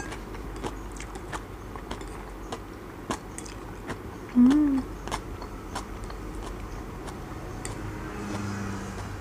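Close-up chewing of japchae glass noodles, with scattered wet mouth clicks and smacks. About four seconds in comes a short hummed "mm" that rises and falls, the loudest sound, and near the end a low steady hum.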